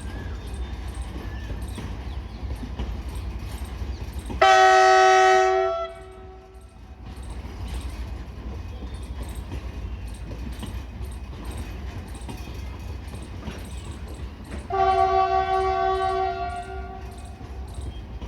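Indian Railways goods train running with a steady low rumble, its locomotive sounding its horn twice: a blast of about a second and a half some four seconds in, and a longer one of about two and a half seconds some fifteen seconds in.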